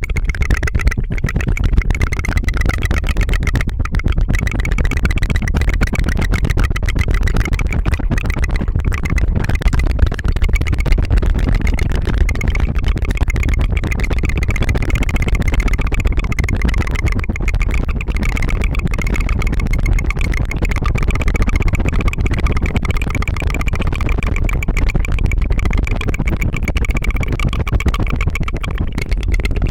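Tongue fluttering: a rapid, continuous rolled-tongue trill close to the microphone, an even, fast put-put rattle like a small engine.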